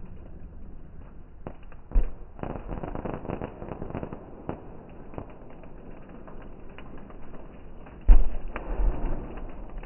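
Fireworks going off: a bang about two seconds in followed by a spell of crackling, then the loudest bang near the end, with more crackle after it.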